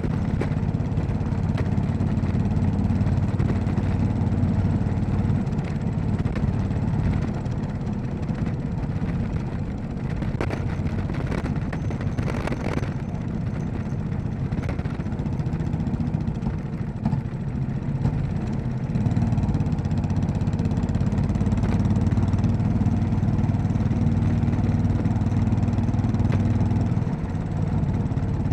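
Royal Enfield Classic 500's air-cooled single-cylinder engine running steadily while riding, somewhat quieter through the middle. It picks up louder about two-thirds of the way through, with a brief drop in revs near the end.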